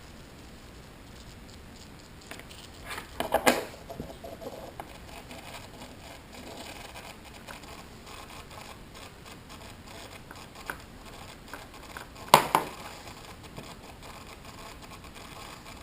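Hobby RC servo held at its neutral 1.5 ms signal with no stick input, still making noise: faint irregular crackling ticks throughout, with a short cluster of louder clicks about three seconds in and one sharp click about twelve seconds in. Noise from a servo that should sit silent at neutral is a sign of servo jitter.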